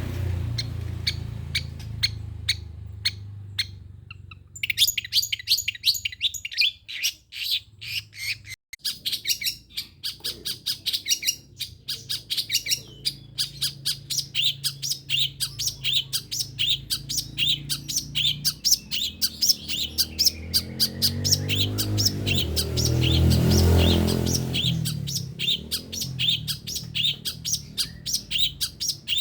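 Long-tailed shrike (pentet) giving a fast run of short, sharp, repeated chattering notes, the rapid-fire 'tembakan' call. It starts a few seconds in and carries on steadily. A low steady hum lies under it and swells briefly about three-quarters of the way through.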